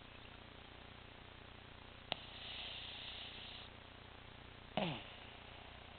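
Dog snoring in its sleep: a small click and a hissing breath lasting about a second and a half, then near the end a short snore that falls steeply in pitch.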